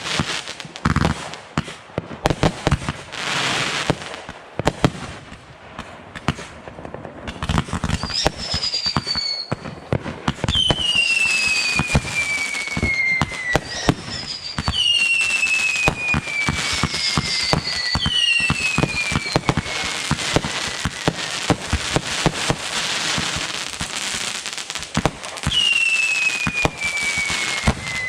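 Fireworks going off in a rapid string of pops and crackles, with about five long whistles that each slide down in pitch over two to three seconds.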